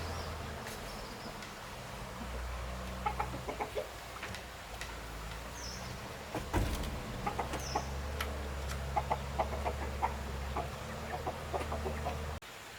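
Chickens clucking in short clusters over a low steady hum.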